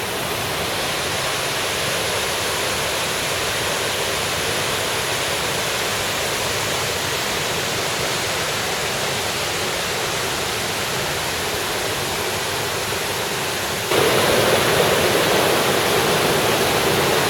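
Waterfall rushing, a steady roar of falling water that grows abruptly louder about fourteen seconds in.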